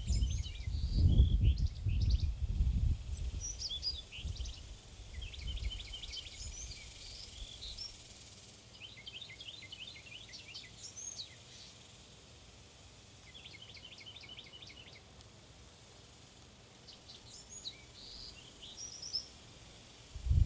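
Small birds at a backyard feeder chirping and twittering, many short high calls and quick runs of chips repeating throughout. Bursts of low rumble are loudest in the first few seconds, then die away.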